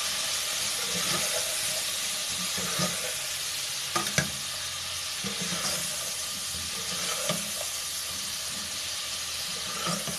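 Chicken and spice masala frying in oil in a pan with a steady sizzle while it is stirred, a couple of sharp knocks of the spoon against the pan about four seconds in and another near the end.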